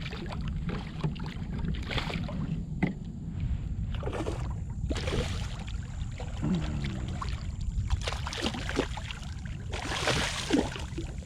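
Hooked redfish splashing and thrashing at the surface beside a kayak in irregular bursts, the biggest about halfway through and near the end, over a steady low rumble of wind on the microphone.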